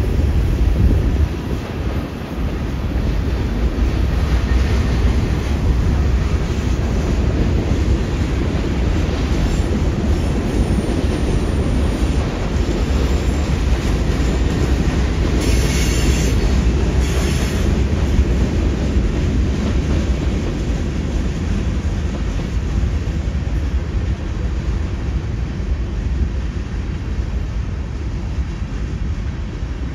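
Freight train of covered hopper and tank cars rolling past, a steady rumble of steel wheels on rail, with two short bursts of hiss about halfway through. The rumble eases a little near the end as the last cars go by.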